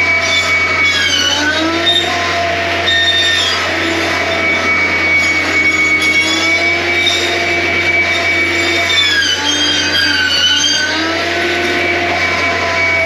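John Deere 333G compact track loader running hard with a steady high hydraulic whine. Its engine note sags under load and recovers, once about a second and a half in and again near ten seconds.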